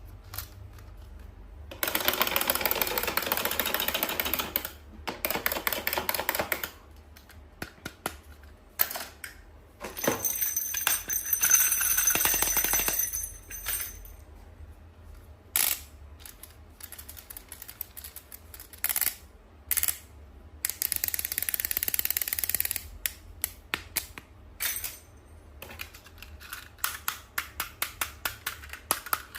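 Toy packaging and parts handled up close: many sharp clicks and taps, broken by three stretches of loud crinkling rustle, and a quick run of clicks near the end.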